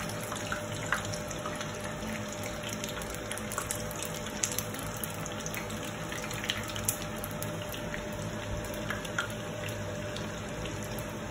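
Chicken vadai patties deep-frying in hot oil: a steady sizzle with many small crackles and pops scattered through it.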